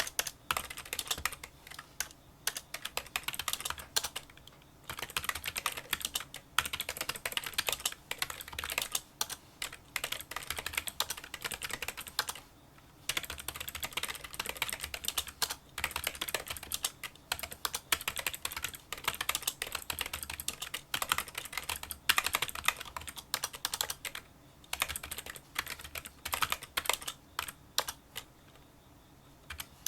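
Fast touch-typing on a Kinesis Freestyle Solo split keyboard with membrane key switches: a rapid, continuous patter of small, fairly quiet clicks. The typing breaks briefly a few times and has a longer lull near the end.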